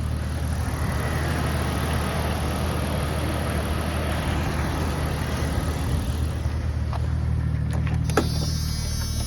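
1996 Jeep Cherokee XJ's 4.0 litre inline-six engine idling steadily. A few sharp clicks come near the end.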